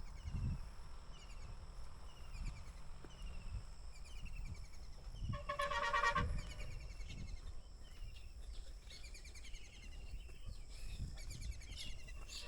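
Outdoor birdsong: a small bird repeats a short falling chirp over and over, with soft low thuds of footsteps underneath. About five seconds in, a louder pitched call or horn sounds for about a second.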